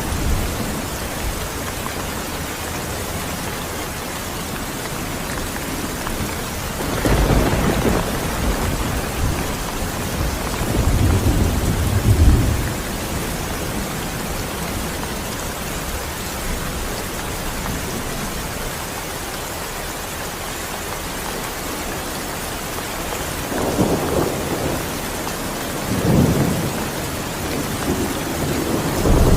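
Steady heavy rain with rolls of thunder: low rumbles swell and fade about 7 seconds in, again from about 10 to 12 seconds, and twice more near the end.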